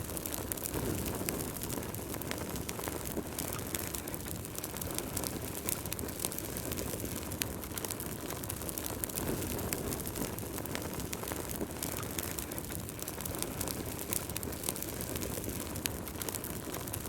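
Wood fire burning in a fireplace: a steady low rush of flames with frequent irregular crackles and small pops.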